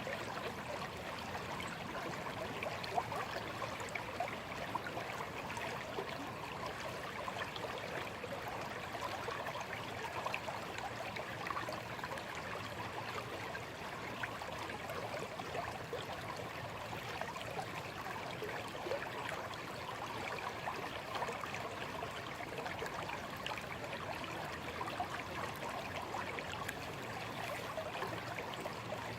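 A small stream babbling and trickling steadily over stones, a constant lively splash and gurgle.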